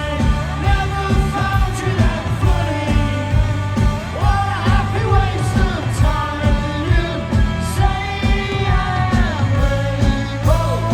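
Live rock band performing: a singer's voice with sliding pitch over a fast, steady drumbeat and full band accompaniment.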